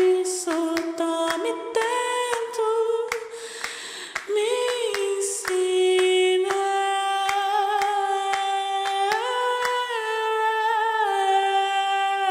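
Female voice humming and singing long held, gliding notes with no instruments beneath, over a steady scatter of finger snaps.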